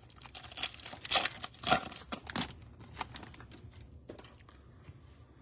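Crinkling and tearing of a foil trading-card pack wrapper as cards are handled, a quick run of crackles that is loudest about a second and a half in, then dies down to quiet handling.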